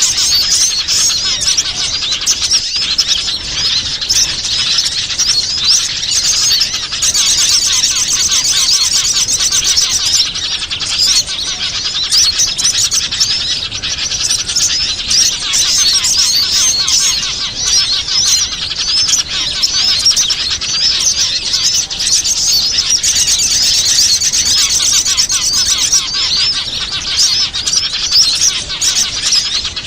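Dense, unbroken chorus of many small wild birds chirping and twittering over one another, a bird-lure (pikat) recording meant to draw small wild birds in.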